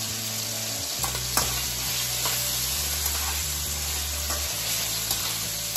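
Slices of pork belly sizzling in hot oil in a wok as their fat renders out, stirred with a metal spatula that clicks against the pan a few times.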